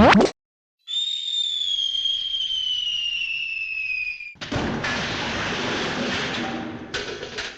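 Cartoon sound effects: a short burst, then a whistle falling steadily in pitch for about three seconds, cut off by a loud explosion-like crash lasting a few seconds, with a brief second burst near the end.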